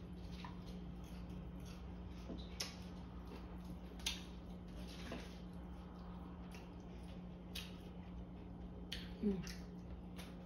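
Chewing crispy fried chicken, with scattered short crunchy crackles and wet mouth sounds every second or so over a steady low hum. A short falling vocal sound comes near the end.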